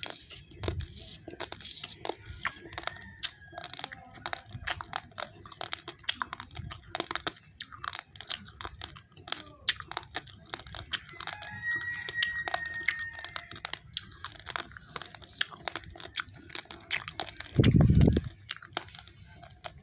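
Uncooked rice grains being chewed close to the microphone: a dense, irregular run of sharp crunches and cracks. Near the end comes a brief, loud low thump.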